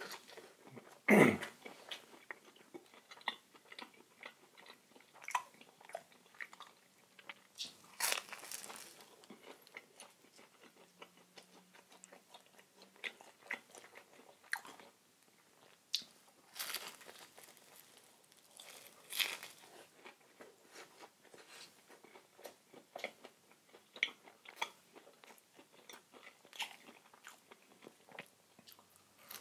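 Close-miked eating: irregular crisp crunches from biting and chewing a flaky Korean red bean pancake (hotteok), the loudest bite about a second in.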